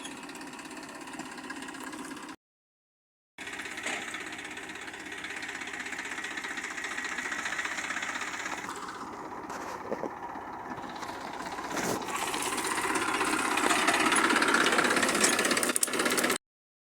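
Vehicle engine running steadily, getting louder over the last few seconds.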